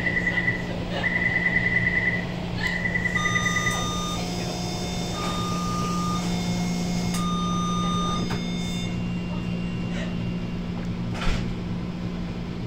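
Three buzzing electronic beeps, each about a second long, followed by a sequence of clean electronic tones stepping between pitches like a chime, over a steady low vehicle hum; a single click near the end.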